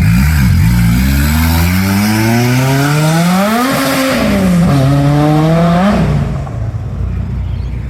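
Car engine accelerating hard away, revs climbing through one gear, dropping at an upshift about four seconds in, then climbing again in the next gear before the driver backs off about six seconds in.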